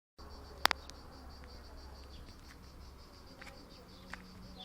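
Insects chirping in a steady, fast-pulsing high trill. A single sharp click sounds about two thirds of a second in. A low hum underneath fades out about three seconds in.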